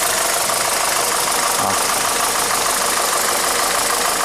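VW SpaceFox 1.6 8v EA111 engine idling with a loud, harsh knocking noise, described as an ugly noise. The mechanic takes it for detonation (pinking) or piston slap.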